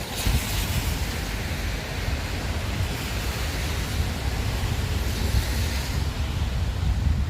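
Wind buffeting the microphone in a low, unsteady rumble, over a steady hiss of rain and wet road. The hiss swells just after the start and again about five seconds in.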